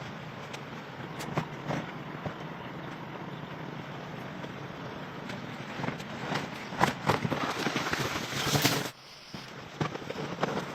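Scattered knocks and clicks over a steady background hiss, growing busier and crackly for a few seconds before the sound cuts down sharply about nine seconds in.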